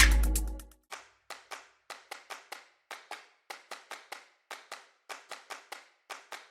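Music fading out, then a quick, uneven run of sharp taps or clicks, about four or five a second.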